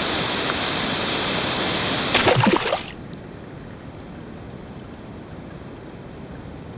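Steady rush of water flowing and falling through the lakeside cascades. A little after two seconds comes a short, loud burst of bubbling. It then drops to a much quieter, muffled steady hiss of water heard through an underwater camera.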